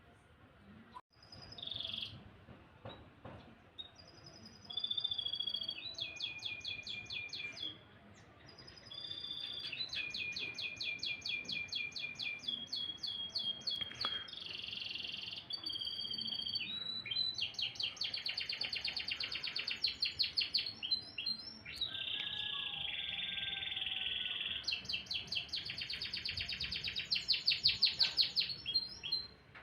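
Domestic canary singing a long song of rapid trills and rolled phrases of fast repeated high notes, with a few short breaks, loudest near the end.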